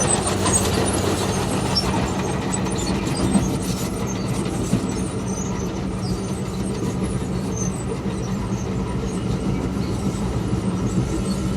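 Komatsu D51PX crawler bulldozer's diesel engine running at a steady pitch, under a continuous dense rattling and clanking of the kind its steel tracks make while working.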